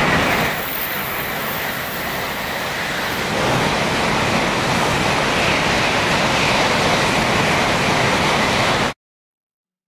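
N700 Series Shinkansen high-speed train passing at speed, a steady rushing noise that grows a little louder about three and a half seconds in. It cuts off suddenly about a second before the end.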